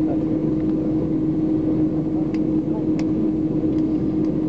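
Steady drone inside an airliner cabin: a constant engine and air-system hum, with two faint clicks about halfway through.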